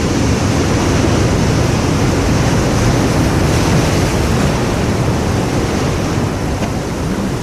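Ocean surf breaking and washing in, a steady rush of noise that eases slightly near the end, with wind buffeting the microphone.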